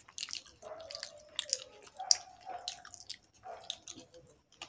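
Close, wet chewing and lip-smacking: a string of irregular short clicks from someone eating a soft rice-flour pitha filled with coconut and sugar.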